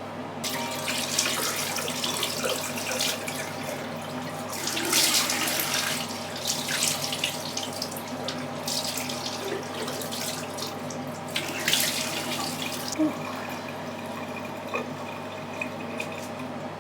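Tap water running into a sink, with irregular splashing as a face is rinsed with cupped hands. The water stops a few seconds before the end.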